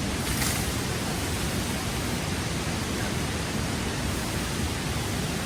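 Steady rushing noise at an even level, with a brief crackle about half a second in.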